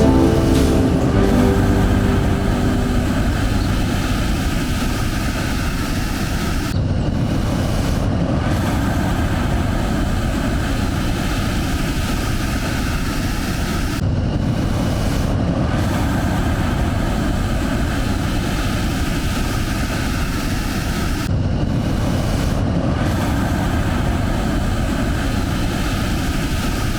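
Steady, loud rushing of a large waterfall, the Upper Tahquamenon Falls, with heavy water pouring over the drop.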